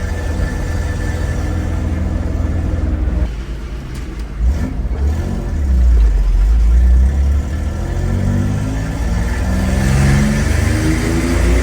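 1993 Toyota pickup's engine running through a stainless steel cab-back exhaust with an aftermarket muffler: a steady note, a dip about three seconds in, a deep low rumble, then revs climbing over the last few seconds.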